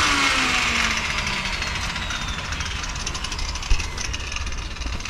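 A power tool spinning down after being switched off, its whine falling slowly in pitch and fading over the first couple of seconds, then a single sharp knock.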